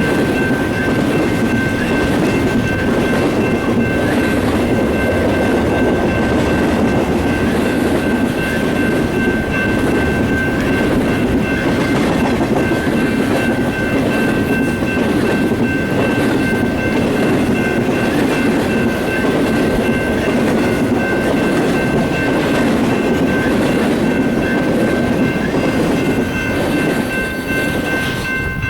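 A train rolling past at close range, its cars making a steady heavy rumble with some rail clatter. Several steady high-pitched tones ring on throughout.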